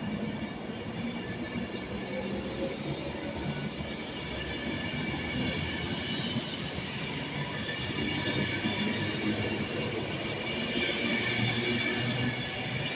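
Class 390 Pendolino electric train pulling out of the station: a steady whine of several high tones over the rumble of the train, slowly growing louder.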